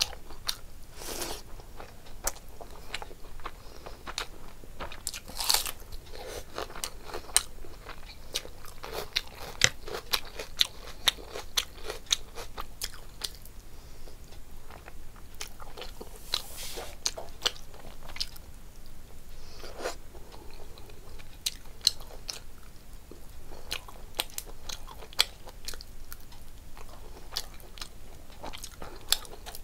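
Close-miked eating: a person chewing and biting mouthfuls of rice and fish curry eaten by hand, with many sharp wet mouth clicks and small crunches and a few short louder smacking sounds.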